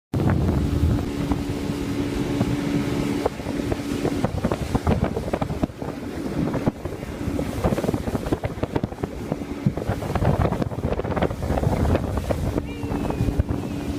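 Motorboat engine running over water, with heavy wind noise on the microphone and rough splashing and knocking throughout; a steady engine tone stands out at the start and again near the end.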